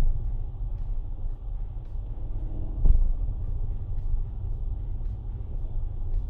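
Low, steady rumble of a car engine idling, with a single thump about three seconds in.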